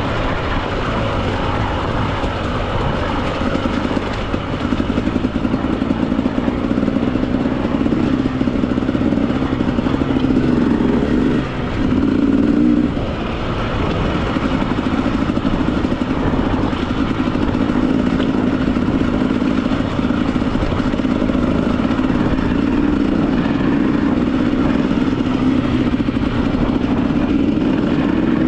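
Husqvarna TE 300 two-stroke dirt bike engine running under throttle while riding. Its level picks up about four seconds in, dips briefly near the middle, surges, then holds steady.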